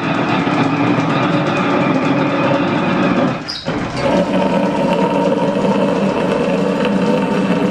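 Line-shaft-driven machine tool running steadily through a cut, with a brief dip in level about three and a half seconds in.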